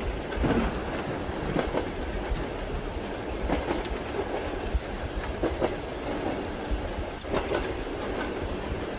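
Train wheels clacking over rail joints, heard from inside a passenger compartment: a knock or a close pair of knocks every second or two over a steady rolling rumble.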